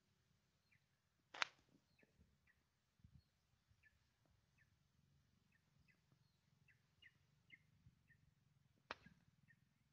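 Faint, near-silent outdoor quiet with a small bird chirping short notes about twice a second, and two sharp clicks, the louder about a second and a half in and another near the end.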